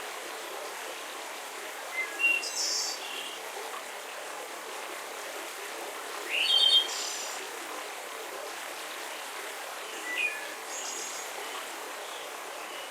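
Birds chirping in three short bursts of high calls about four seconds apart, over a steady background hiss of forest ambience.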